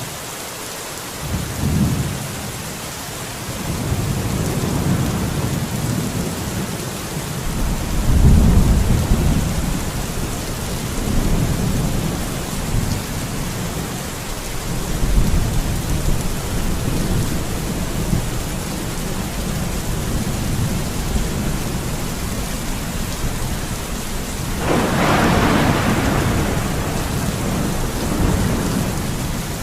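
Steady rain hiss with low rolling rumbles of thunder coming and going every few seconds. A stronger, fuller roll of thunder comes near the end.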